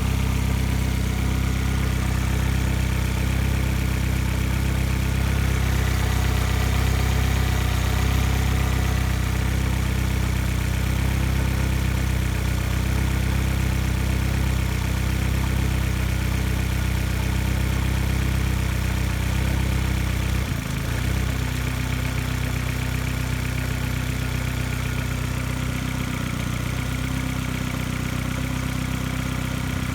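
2006 Vauxhall Astra VXR's 1998cc turbocharged four-cylinder petrol engine idling steadily. About two-thirds of the way through the note wavers briefly, then it runs on slightly quieter.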